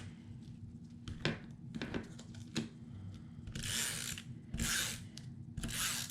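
Paper-crafting work at a tabletop: scattered light clicks and taps, then three short rasping strokes about a second apart, like a hand tool drawn across paper.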